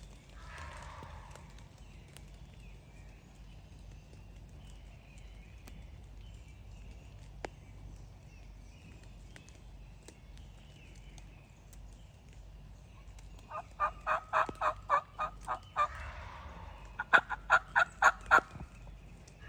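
Wild turkey gobbling faintly in the distance about a second in. Near the end come two loud, rhythmic runs of turkey yelps, about ten notes and then about seven, at roughly five a second.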